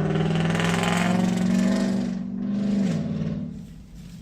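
Pickup truck's loud engine and exhaust running hard nearby, its pitch holding steady, then dropping about three seconds in as the sound fades. The exhaust is loud enough that she suspects it needs a muffler.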